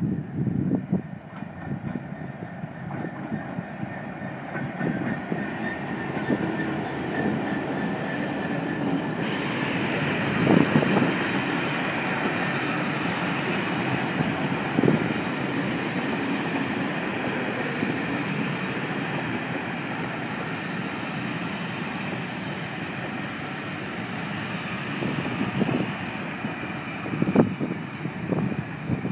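A diesel-hauled train arriving slowly: a DRS Class 66 locomotive runs in, followed by a long rake of passenger coaches rolling past with a steady rumble. Now and then there are sharp clicks and knocks as the wheels cross rail joints.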